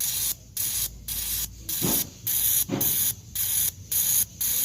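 Petrol fuel injectors being pulse-tested out of the engine, spraying in short hissing bursts about two times a second.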